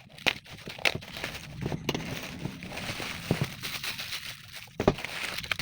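Irregular clicks and knocks over a steady hiss, the sound of workshop hand work on the brush cutter's parts.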